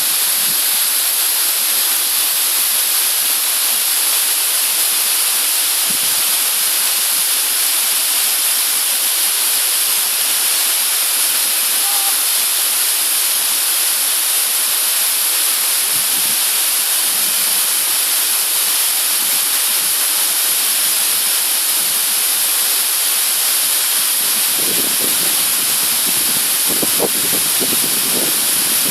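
A steady, unbroken hiss of rushing water. About 24 seconds in, lower, uneven sounds join it.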